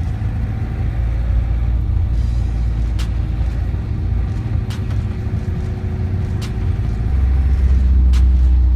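Bus engine and road rumble heard from inside the moving bus, a deep steady drone that grows louder about seven seconds in, with a few sharp knocks or rattles along the way.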